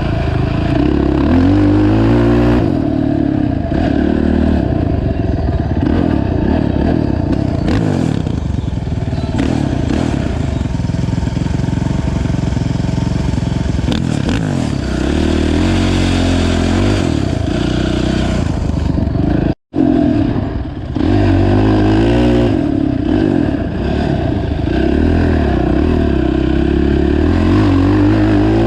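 Honda TRX450 ATV's single-cylinder four-stroke engine under way on a trail, revving up and falling back again and again as the throttle is worked, with some rattle. The sound cuts out for an instant about two-thirds of the way through.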